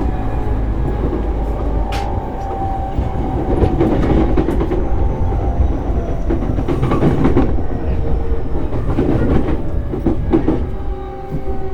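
Running sound inside an E233-series electric train: a steady rumble of wheels on rail, with clacks over rail joints and the even hum of the traction motors.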